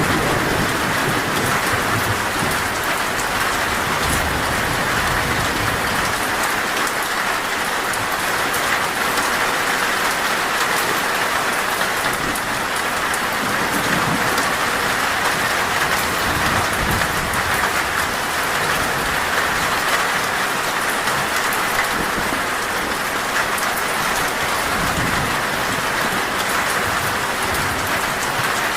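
Heavy, torrential rain drumming steadily on a metal roof, with a low rumble of thunder fading away in the first second or so.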